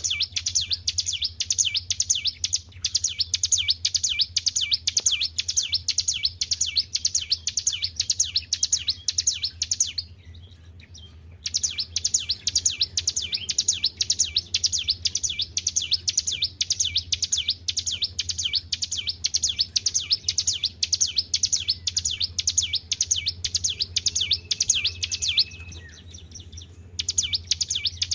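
Ciblek gunung songbird singing a fast, unbroken chatter of high repeated notes, stopping briefly twice. A steady low hum runs underneath.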